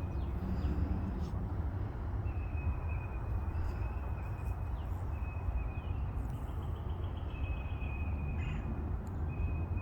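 A bird calls a thin, high note at one pitch, over and over, about once a second, over a steady low rumble.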